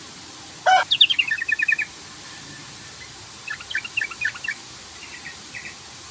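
Yellow-vented bulbul (trucukan) calling: a quick, bubbling phrase of notes that fall in pitch about a second in, a second chattering phrase halfway through, and a few faint notes near the end.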